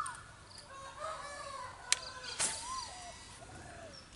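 A rooster crowing, long drawn-out calls that rise and fall in pitch, with a sharp click about two seconds in.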